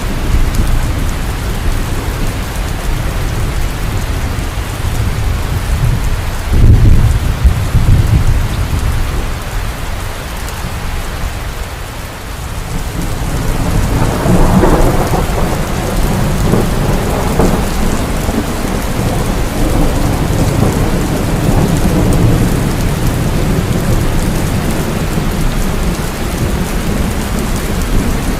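Heavy rain falling steadily in a thunderstorm, with low rumbling thunder. A sudden loud thunderclap comes about seven seconds in, and from about halfway a long peal of thunder swells up and rolls on.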